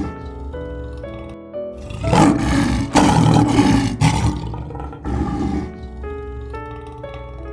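A lion roaring: one long roar starting about two seconds in and a shorter one around five seconds, over background music with a simple melody of stepped notes.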